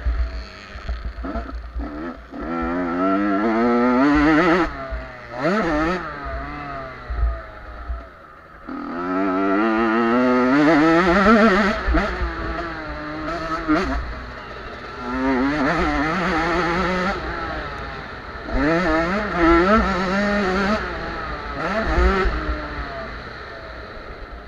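Junior motocross bikes of 50 to 85 cc racing: their engines rev up in repeated surges, the pitch climbing sharply and falling back every few seconds as riders accelerate and shift.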